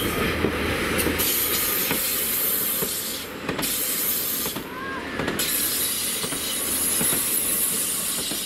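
Diesel multiple unit led by a Class 143 Pacer running past close by: steady rail and wheel noise with a hiss and a few clicks over the rail joints.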